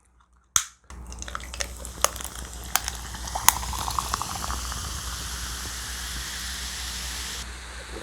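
Spicy braised chicken stew simmering, a steady bubbling hiss that starts about a second in. A short run of little pops comes around the middle, and sharp clicks of utensils are scattered through it.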